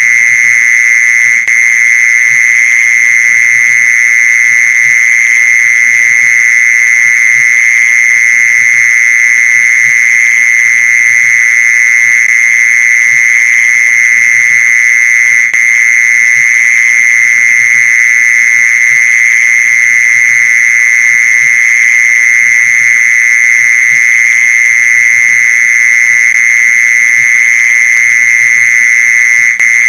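Mole cricket song: a loud, unbroken trill held on one high pitch, the call used to lure mole crickets.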